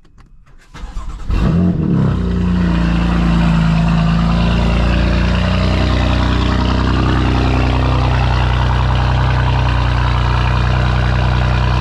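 Car engine cold-started: a brief crank about a second in, a rev flare as it catches, then a loud, steady idle.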